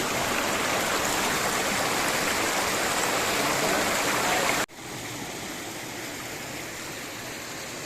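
Steady rush of water from a small stream spilling down from above. About halfway through it cuts off suddenly and goes on more quietly, the same kind of running-water sound.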